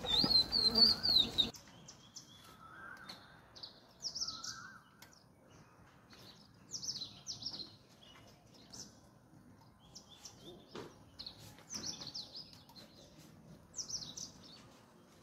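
Birds chirping: short, high, downward-sweeping calls every second or two. It opens with a louder warbling high call that stops suddenly about a second and a half in.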